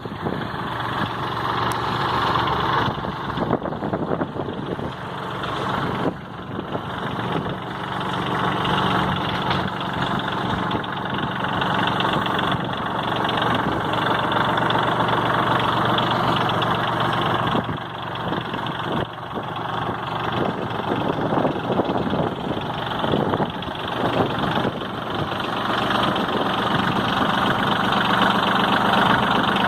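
New Holland tractor's diesel engine running steadily at idle, getting a little louder over the last few seconds.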